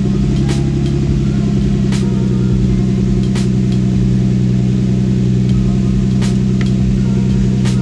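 Lexus IS300's 2JZ-GE inline-six idling steadily just after a cold start, its exhaust running through a newly installed Y-pipe and only very slightly louder than stock. A faint click comes every second or so.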